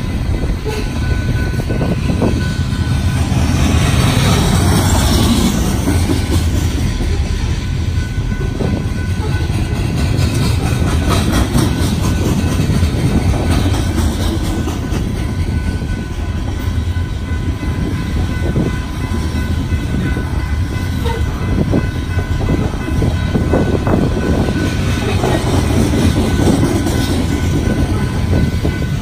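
Freight train passing close by: a steady, loud rumble of rolling cars and wheels on the rails.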